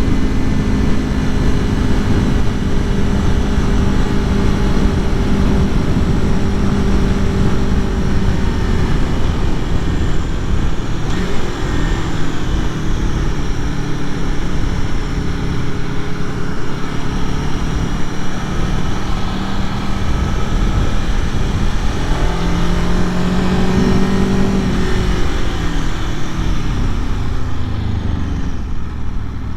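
2021 Aprilia Tuono V4 Factory motorcycle's V4 engine running while riding. The engine pitch drops about a third of the way in, climbs again later, then falls away toward idle near the end as the bike slows.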